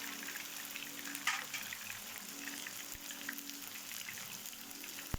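Batter-coated spiral potatoes frying in a little hot oil: a steady sizzle with scattered small crackles and pops, one louder crackle about a second in.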